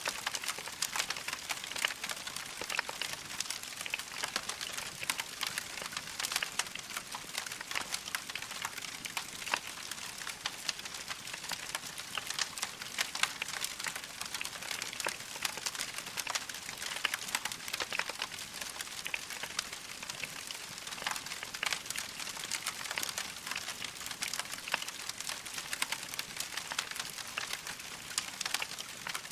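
Wood fire in a fireplace crackling steadily: a dense run of small sharp crackles and pops over a soft hiss of burning.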